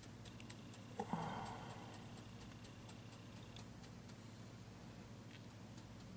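Faint, irregular light ticking over a low hum, with one louder knock about a second in that trails off briefly.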